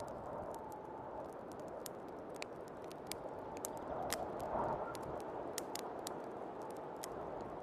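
Wood fire crackling with frequent sharp, irregular pops over the steady rush of snowstorm wind, which swells in a gust about halfway through.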